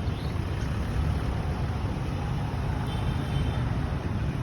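Steady outdoor ambience dominated by a continuous low rumble, with a faint brief high tone about three seconds in.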